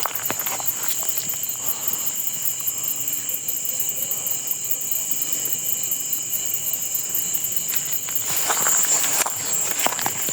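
A steady, high-pitched chorus of insects, typical of crickets, chirring without a break. Near the end, footsteps and rustling come in over it.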